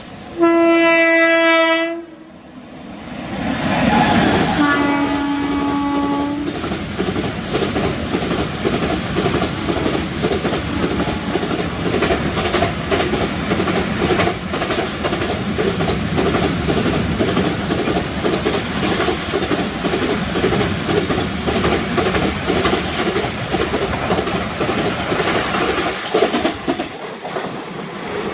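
Indian Railways train sounding its horn: a short loud blast, then a second lower-pitched blast a few seconds later. It then passes with a steady rumble and clatter of wheels on the rails for about twenty seconds, dropping off near the end.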